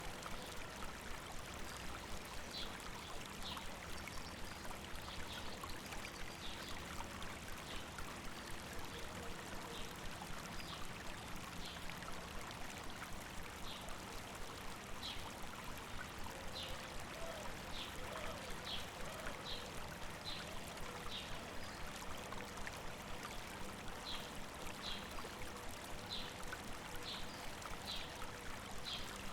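A small river babbling over rocks: a steady rush of running water. A bird repeats short high chirps over it, about one or two a second.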